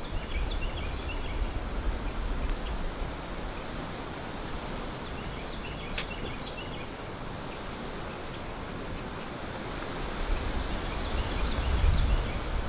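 Woodland ambience: a small songbird sings three short bursts of quick high chirps, a few seconds apart, over a steady outdoor hiss with faint scattered ticks. A low rumble comes at the start and swells again near the end, with one sharp click about halfway.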